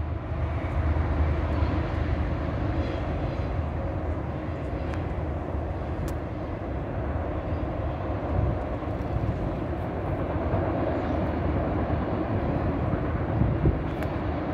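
Autorack cars of a freight train rolling past: a steady rumble of wheels on the rails, with a few faint clicks.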